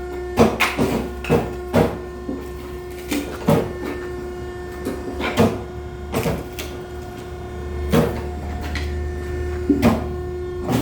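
Firewood-splitting machinery running with a steady hum, while split oak pieces knock and clatter at irregular intervals, several knocks a second at times and sparser in between.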